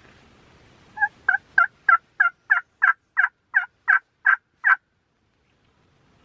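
A run of about twelve evenly spaced turkey yelps, roughly three a second, each note breaking between a higher and a lower pitch. The series starts about a second in and stops just before the five-second mark.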